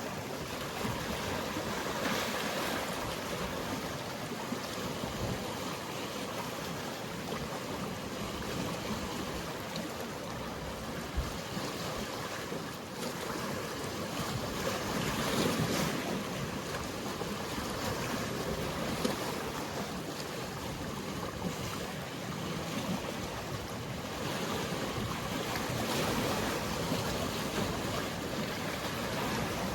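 Mediterranean sea waves washing against the shore in a steady hiss of surf, swelling louder every several seconds, with a faint light wind.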